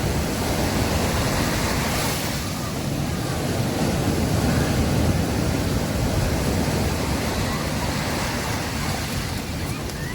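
Sea surf washing onto a beach, a continuous rush of breaking waves that swells and eases slightly, with wind rumbling on the microphone.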